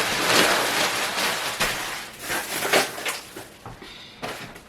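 Packaging being handled and crinkled, a dense crackly rustle that is loudest for the first couple of seconds and then thins to a few scattered rustles.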